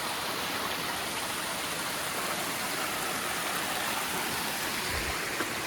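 Water rushing steadily down a mountain stream's cascades.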